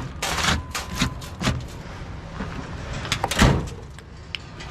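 A run of sharp knocks and clatters from scrap being handled, then one louder slam about three and a half seconds in.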